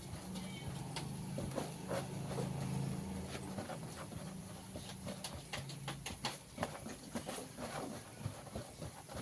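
Floured chicken pieces frying in hot oil, crackling with many small irregular pops. A steady low hum runs under it for most of the first six seconds.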